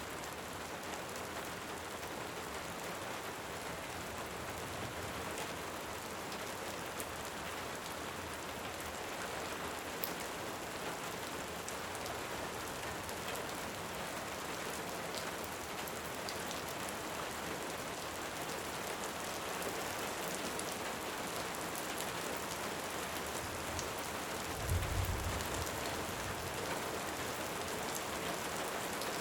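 Steady heavy rain hissing, with scattered faint crackles from a wood fire and one short, low rumble of distant thunder near the end.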